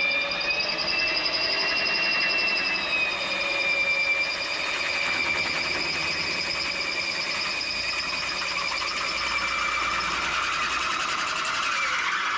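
A machine running with a steady high whine and a fast buzz, its pitch lifting slightly about a second in and easing back a couple of seconds later.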